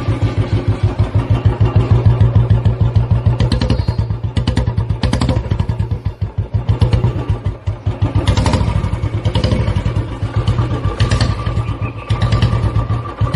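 Motorcycle engine running with a rapid, even firing pulse. The engine eases off about midway, then picks up again.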